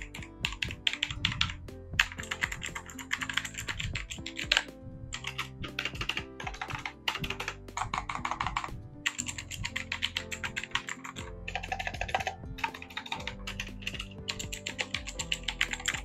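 Fast typing on a Rapoo V500PRO mechanical keyboard with blue switches: a dense stream of crisp, clicky keystrokes, broken by a few short pauses.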